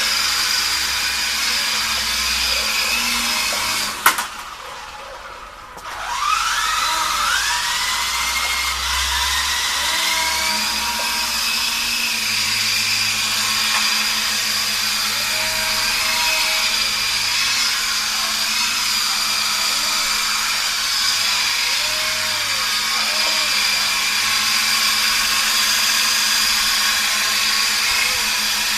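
Small electric motor and rotor of a radio-controlled helicopter whining steadily. About four seconds in, after a click, it drops away briefly, then spins back up with a rising whine and runs steadily again.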